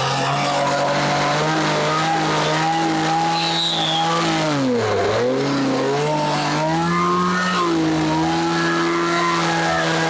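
Two-stroke chainsaw running at high revs while carving into a wooden log. The engine note holds steady, then dips sharply and picks up again about halfway through.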